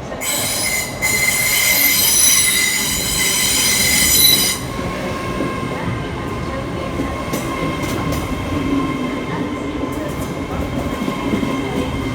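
Train wheels squealing: a loud, high-pitched squeal that runs for about four and a half seconds and cuts off suddenly. The train then runs on with a steady rumble and faint clicks.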